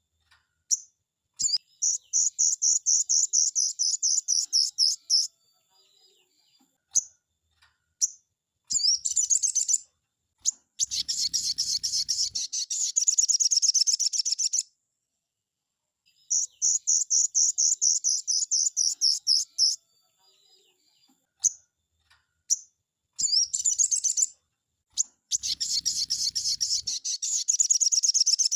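Sogon (crimson sunbird) song: high-pitched, rapid chattering trills in phrases of a few seconds with short gaps between. It is the full, emphatic singing used as a training recording for caged sogon, and the sequence of phrases repeats about halfway through.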